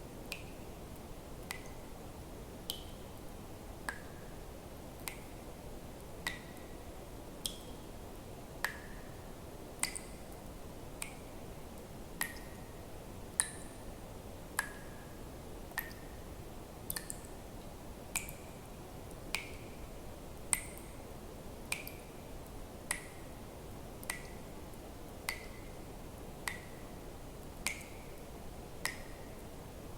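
Water dripping, one drop at a time in a slow, even rhythm of about one every second and a bit, each drop a short sharp plink with a brief ringing tone, over a faint steady hiss.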